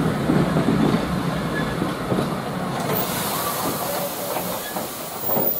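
Vintage railway coaches rolling slowly over jointed track and points, wheels knocking and clicking, fading as the train moves away. A steady hiss comes in about halfway through.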